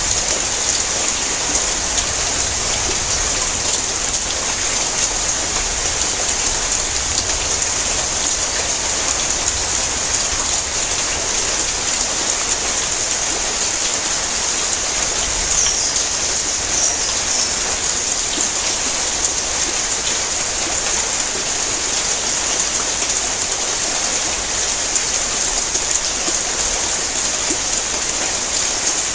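Heavy rain falling on a tin roof: a steady, dense patter of drops on the metal.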